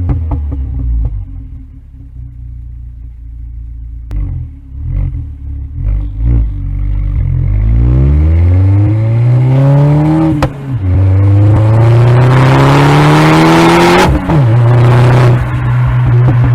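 Turbocharged four-cylinder engine of an Audi A4 B8 with a K04 turbo: a few short throttle blips with sharp exhaust pops, then the car pulls away. The engine pitch rises, drops at an upshift, rises again through the next gear, then settles into a steady cruise after a second upshift.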